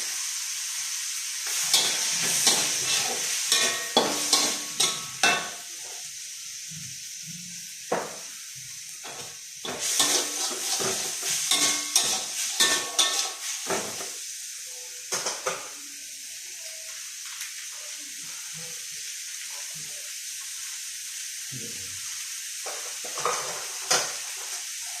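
Nasi goreng (fried rice) frying in a pan: a steady sizzle, broken by spells of stirring with a spatula that scrapes and knocks against the pan.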